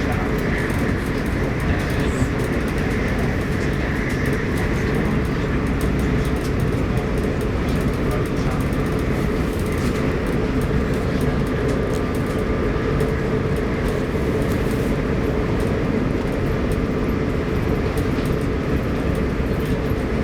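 Steady rumble and hum inside the passenger cabin of an Arlanda Express electric train running along the line.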